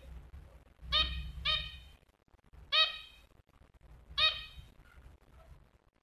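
A caged pet bird giving short, nasal, honking calls: four single notes about a second or more apart, two of them close together near the start.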